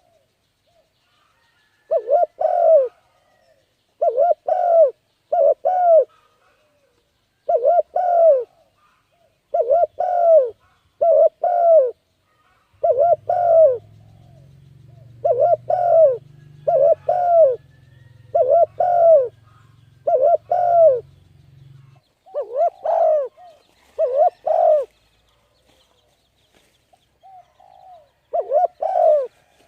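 A bird calling over and over in short, arched, pitched notes, mostly in pairs and threes with brief gaps. A faint low hum runs under the calls for several seconds in the middle.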